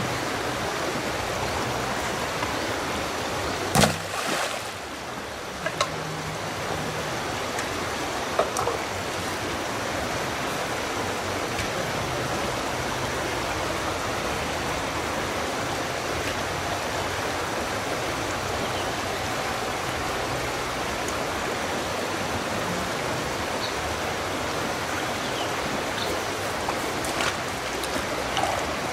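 Steady rush of flowing water, with a few light knocks, the loudest about four seconds in.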